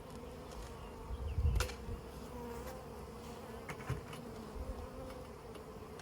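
Honey bees buzzing steadily around a hive, with a thump about a second and a half in and a few lighter knocks near the middle.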